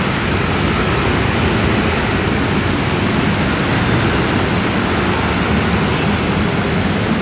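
Steady noise of dense motorbike and scooter traffic on a city street, with no single engine standing out.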